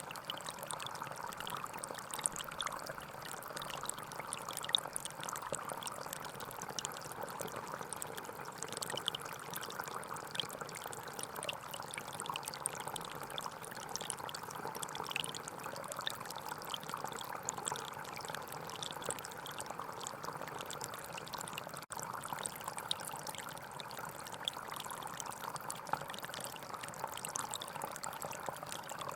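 Gentle forest stream flowing steadily, its water trickling and splashing, with a momentary dropout about two-thirds of the way through.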